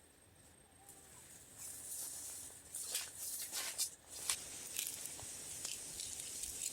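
Rustling and crackling of leaves and vegetation, picking up about a second and a half in, with scattered sharp crackles and snaps.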